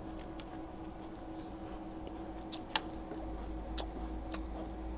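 Closed-mouth chewing of a D'Loops crispy oat snack: a few faint crunches and mouth clicks, about five sharp ticks in the second half, over a steady low hum.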